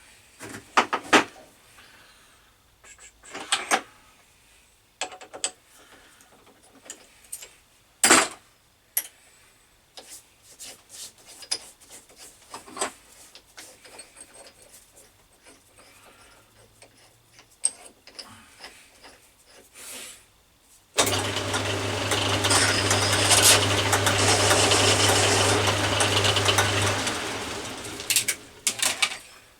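Scattered clicks and knocks of metal tools being handled, then about 21 s in an electric machine motor switches on and runs with a steady hum for several seconds before winding down.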